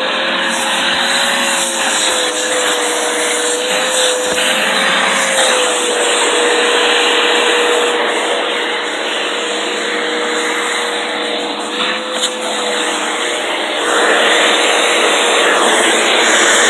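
Vacuum cleaner running steadily, a hissing rush of air with a motor whine that wavers slightly in pitch. It gets a little louder near the end.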